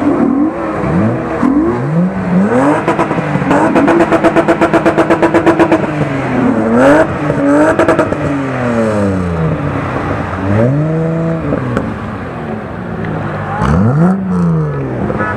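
Car engine being revved hard in repeated blips, its pitch climbing and dropping again and again. A few seconds in it is held at high revs for about two seconds with a rapid stutter, then blipped several more times.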